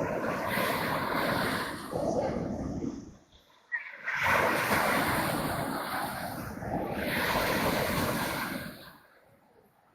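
Sea waves washing onto the shore: two long surges of rushing water, each swelling and then ebbing away, the second fading out near the end.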